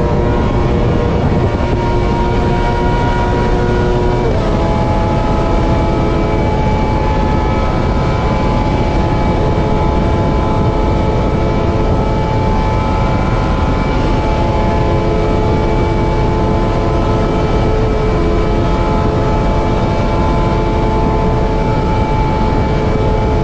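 Motorcycle riding at a steady speed, with engine drone and wind rush. The engine note shifts once about four seconds in, then holds steady.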